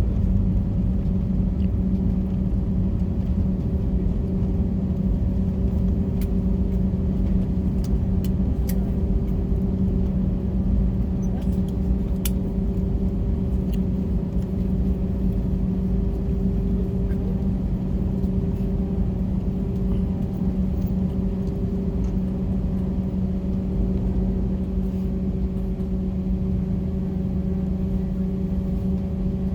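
Airliner cabin noise: a steady low rumble with a constant hum from the engines, with a few faint clicks.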